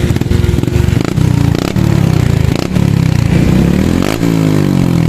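Honda RS125 Fi's single-cylinder four-stroke engine running through a Taikom aftermarket exhaust pipe, revved so that its pitch dips and climbs again about four seconds in.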